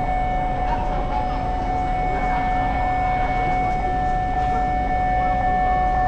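Steady deep engine rumble with a constant whine over it, typical of a large passenger ship's engines and machinery heard on board.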